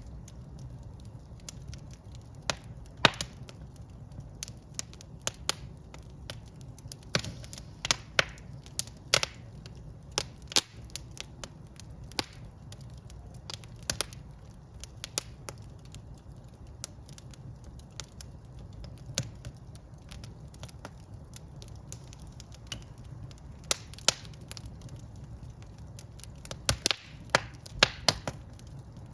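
Wood fire burning in a fireplace: irregular sharp crackles and pops over a steady low rumble of the flames, with clusters of louder snaps about three seconds in, around seven to eight seconds, and near the end.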